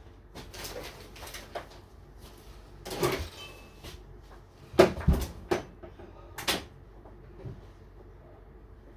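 Several hard knocks and bumps with some scraping in between, the loudest about five seconds in: a refrigerator being wrestled about on a hand-truck dolly.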